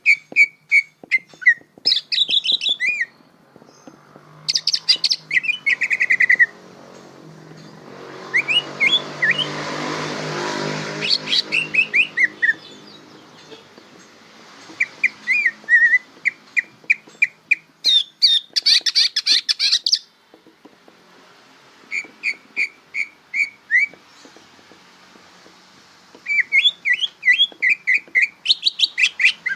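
Cucak ijo (green leafbird) singing in bursts of rapid, repeated chirps and whistled notes with short pauses between phrases: a young bird's 'bongkaran' song while it is still learning. About a third of the way in, a low rushing noise swells up and fades under the song.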